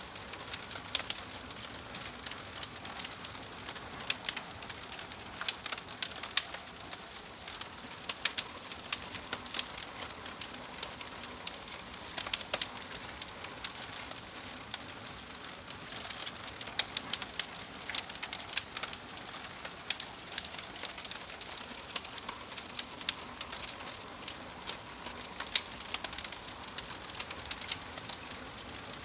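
Fire crackling: irregular sharp crackles and pops over a steady hiss.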